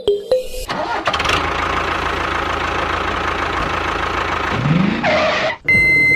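A couple of short musical notes, then a vehicle engine running steadily for several seconds and revving up briefly near the end. Just before the end a steady high reversing beep starts.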